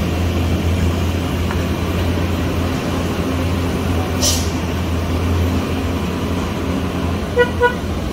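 Heavy vehicle's engine running with a steady low drone, with a short air hiss about four seconds in, like an air brake releasing, and two short horn toots near the end.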